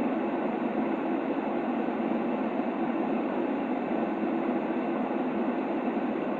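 Steady, unchanging white noise for a baby's sleep, muffled and low-pitched, with most of its weight in the low middle and no high hiss.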